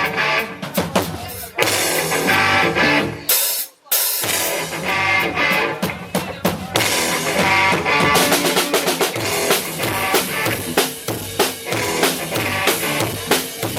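Instrumental post-rock band playing live, with drum kit and guitar. The band stops dead for a moment a few seconds in, then comes back in, and the drums settle into a steady driving beat.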